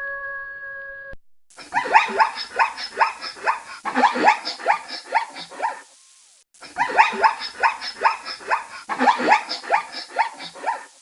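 A canine giving a rapid series of short yelping barks, each sliding down in pitch, about four a second. The run lasts about five seconds, breaks off briefly, and then the identical run plays again. Before the barks, a steady held call cuts off about a second in.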